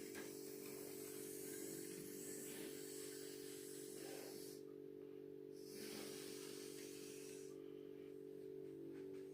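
Small electric motor of an N gauge model train running, faint: a steady hum with a higher hissing whir that comes and goes twice.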